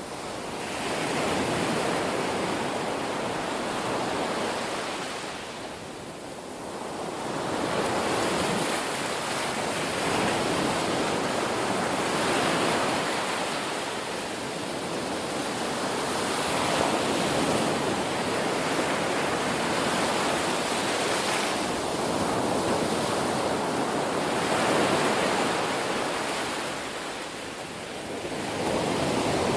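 Ocean surf: a continuous wash of breaking waves that swells and eases, with lulls every several seconds between waves.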